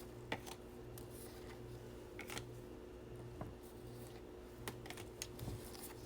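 Faint, scattered light clicks and taps of trading cards being handled and flipped through, over a low steady room hum.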